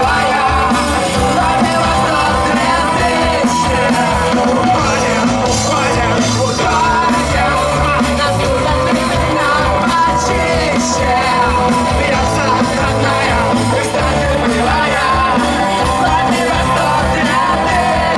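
A live rock band playing loud and steady, with vocal singing and yelling over the music.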